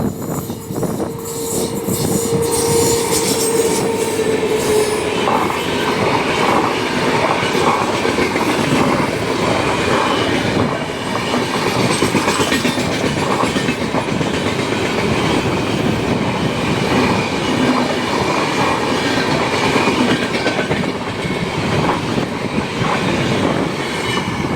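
Train passing close at speed, its wheels clattering rhythmically over the rail joints. A steady whine is heard for the first few seconds.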